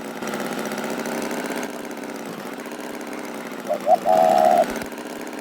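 Tractor engine idling steadily, with a short high tone lasting under a second about four seconds in.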